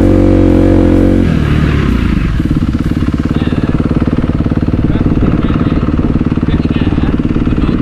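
Dirt bike engine held at steady revs, then the revs drop about a second in and settle into a lumpy, pulsing idle.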